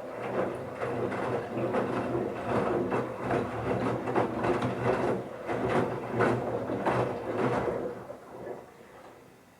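Bauknecht Super Eco 7615 washing machine turning its drum at tumbling speed: the inverter motor hums steadily while wet towels tumble and splash with irregular thuds. The drum slows and stops about eight to nine seconds in, a normal pause between drum turns in the wash.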